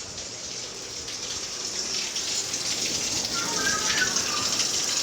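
Heavy rain coming down hard, a steady hiss that grows gradually louder.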